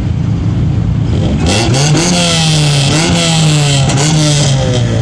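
A car engine revved hard about a second in and held at high revs for roughly three seconds, dipping briefly twice, with a loud hiss over it while the revs are up. Near the end the revs drop back.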